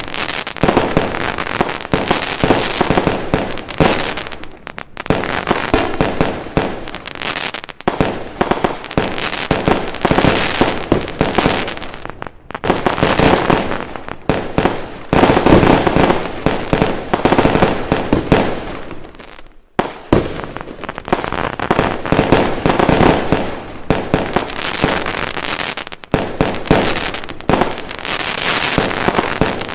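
Fireworks going off in a dense, rapid barrage of bangs and crackling, nearly continuous with a few brief lulls.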